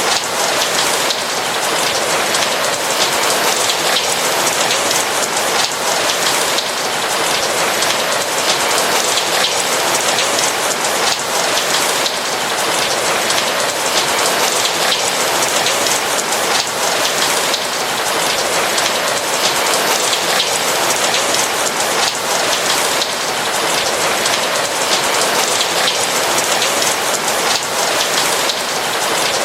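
Steady rain: a dense, even hiss of many drops, with fine individual drop hits scattered through it and no thunder.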